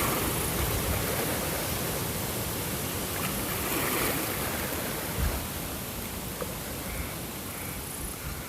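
Steady rushing water, swelling and easing gently and growing a little fainter in the second half.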